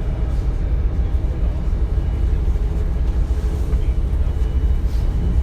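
DB Class 425 electric multiple unit running, heard inside the passenger compartment: a steady low rumble with faint, thin high tones over it.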